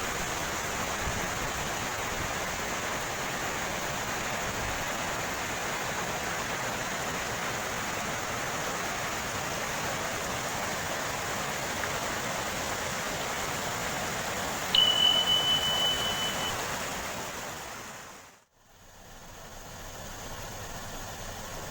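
Steady rush of waterfall water. About 15 s in a single electronic beep sounds for under two seconds, then the water sound fades out to silence.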